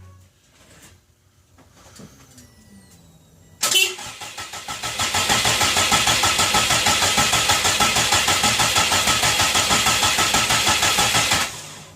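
Subaru WRX flat-four engine being cranked over by its starter motor for about eight seconds, a steady rhythmic chugging of about five beats a second that starts suddenly about four seconds in. The engine turns over without catching and never revs up.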